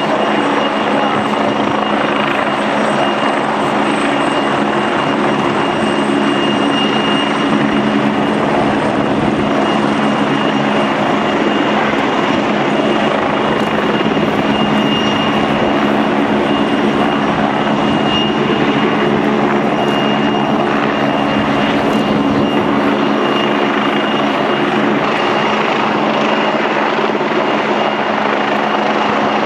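Helicopter running steadily and close, a dense rotor and engine drone with a thin high turbine whine held over it.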